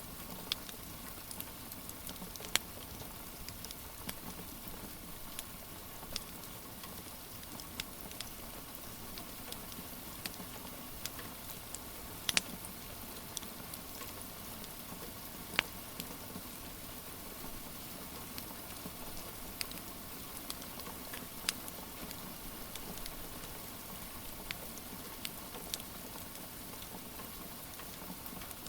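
Steady rain patter with sparse, irregular sharp pops and crackles from a wood fire.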